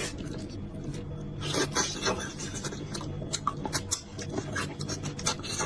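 Close-miked chewing and mouth smacking on soft, slippery beef trotter: a run of quick, irregular clicks.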